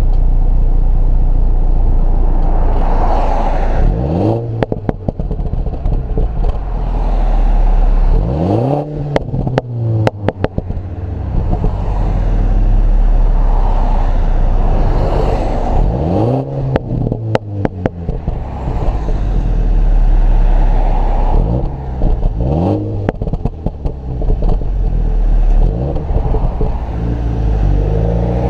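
2015 MINI Cooper S turbocharged four-cylinder engine and exhaust being revved about four times, each rev rising quickly in pitch. As the revs drop, the exhaust crackles and pops on the overrun, with a steady engine note in between.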